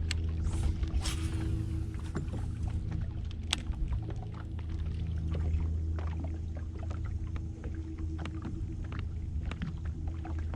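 Electric trolling motor on a fishing boat running steadily with a low, even hum, with scattered light clicks and taps over it.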